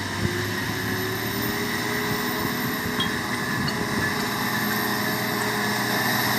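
Ashok Leyland 3118 IL truck's diesel engine running steadily, with a thin high whine over it, slowly getting louder.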